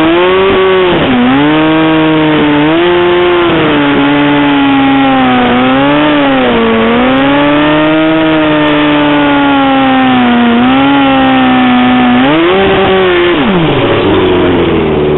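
Drag-racing motorcycle engine held at high revs on the start line, its pitch wavering and dipping briefly several times, then swelling once more and dropping away near the end.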